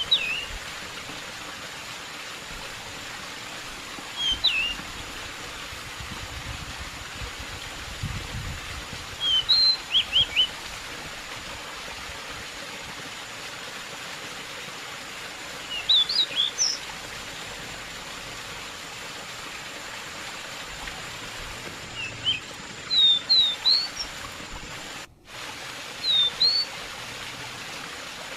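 Pied bushchat (decu) singing short phrases of quick, chirpy whistled notes, six phrases a few seconds apart, over a steady rush of running water. The sound cuts out briefly near the end.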